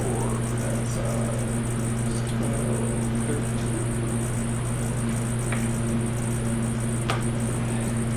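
Steady low hum with two sharp clicks, one a little past halfway and one near the end.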